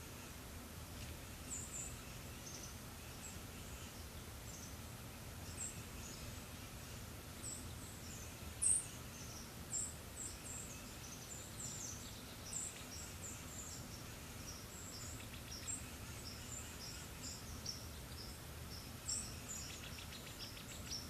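Small birds chirping: many short, high chirps scattered throughout, the loudest about nine seconds in, with a brief rapid trill near the end, over a faint steady low background.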